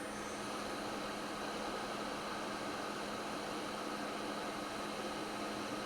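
Hot air rework station blowing a steady hiss of air with a constant hum, heating the board during microsoldering.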